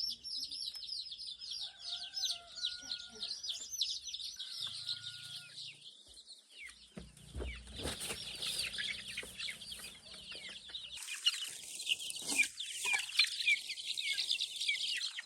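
A crowd of chicks peeping: many rapid, overlapping high-pitched falling calls, with a brief low rumble about halfway through.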